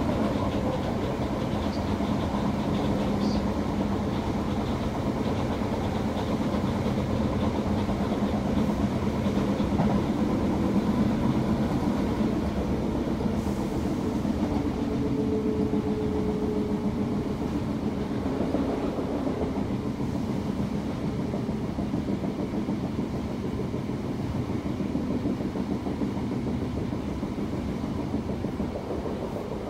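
Steady running noise heard from inside the passenger saloon of a Class 319 electric multiple unit in motion on the rails. It is a continuous rumble with faint steady tones in it, easing slightly near the end.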